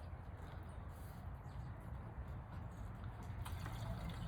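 Gasoline trickling from a gas can's spout into a lawnmower's fuel tank, faint and steady.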